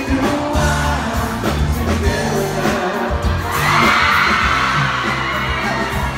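Live pop concert music: a band with a steady bass line and a male singer. About three and a half seconds in, a crowd of fans starts screaming, louder than the music.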